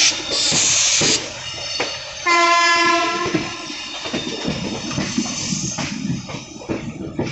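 Train horn sounding one steady blast of about a second, a little over two seconds in, over continuous train noise; a loud hiss of about a second comes shortly before it.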